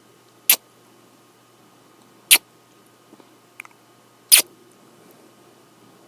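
Close-up kisses on skin: three loud, short smacks about two seconds apart, with a fainter one between the second and third.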